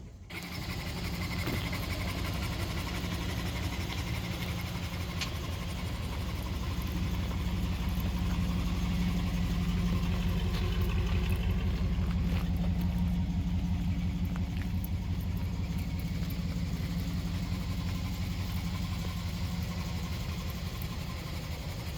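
1999 Dodge Ram 1500 pickup's engine running steadily, swelling slightly louder around the middle before easing back.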